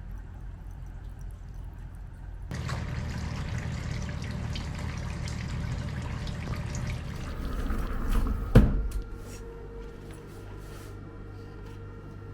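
Water pouring and splashing in a hot-spring bath, starting suddenly about two seconds in and running for several seconds, then a single sharp knock.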